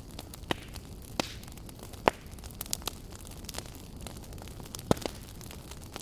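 Wood fire burning in a fireplace: a steady low rumble of flame with sharp, irregular crackles and pops, the loudest about two seconds in and again near the five-second mark.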